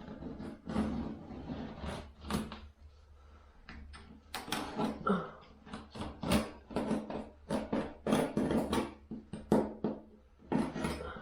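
Irregular knocks, taps and scrapes of hands-on repair work, several a second, over a low steady hum.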